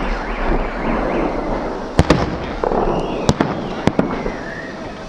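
Fireworks salute going off: three sharp bangs about two, three and four seconds in, over a steady noisy background of further bursts.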